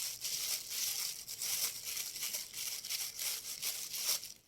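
Thin plastic bag crinkling and rustling steadily as it is handled, with many small crackles, holding aspirin tablets crushed to powder; it stops just before the end.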